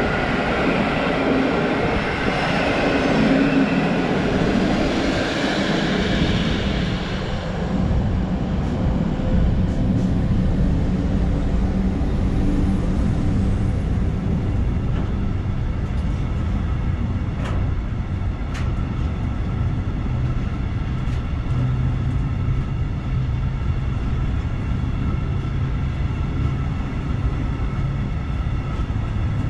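Passenger train coaches running past for the first few seconds, then from about seven seconds in a long freight train of open coal wagons rolling past close by: a heavy, steady rumble of steel wheels on rail with a few sharp clicks.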